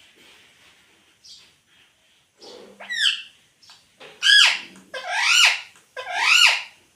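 Rose-ringed (ring-necked) parakeet calling: a few soft chirps at first, then four loud calls from about three seconds in, each sweeping up and back down in pitch, the last three coming about a second apart.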